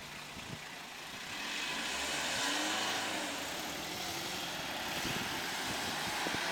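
A vehicle passing close by, its noise rising about a second in and holding to the end.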